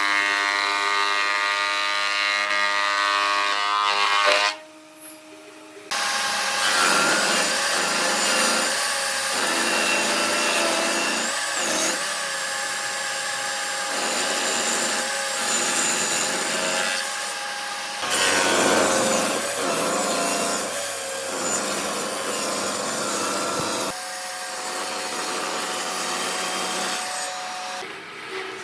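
Electric power tools working on wood: a motor's steady whine over a harsh grinding noise. The sound drops away briefly about four and a half seconds in, then changes abruptly twice more.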